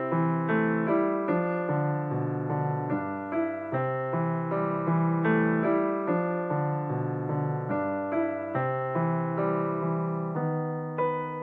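Background piano music: a steady stream of notes over a low bass line.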